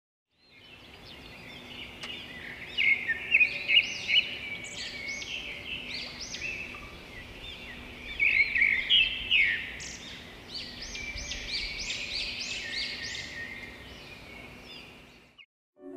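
Birds chirping and singing, many short calls overlapping, over a faint steady hum. The sound fades in about half a second in and cuts off just before the music starts.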